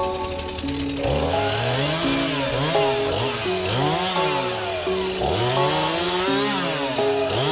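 Chainsaw engine revving up and down again and again, from about a second in, over background music.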